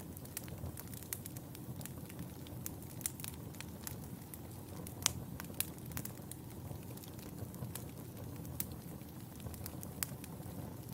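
Wood fire burning in a fireplace: a steady low rumble with irregular sharp crackles and pops, the loudest pop about five seconds in.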